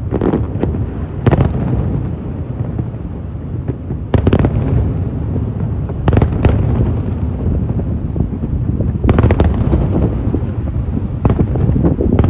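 Aerial fireworks display: shells bursting in sharp bangs, often in pairs or quick runs, every two to three seconds over a continuous low rumble of further bursts.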